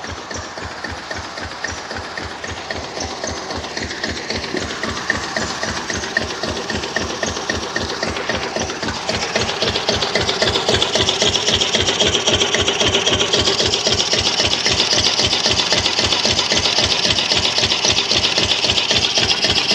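Engine running with an even, regular firing beat; it grows louder and harsher about halfway through.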